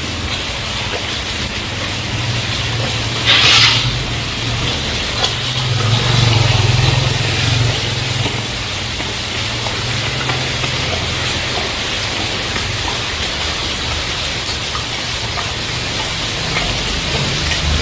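Heavy rain falling steadily, with the low hum of a passing vehicle's engine, loudest about six seconds in. A brief loud hiss sounds about three and a half seconds in.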